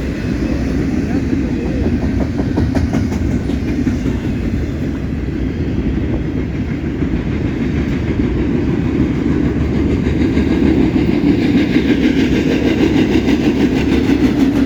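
A BNSF intermodal freight train's cars rolling past, with a steady rumble of wheels on rail and clickety-clack over the rail joints. It grows louder over the last few seconds.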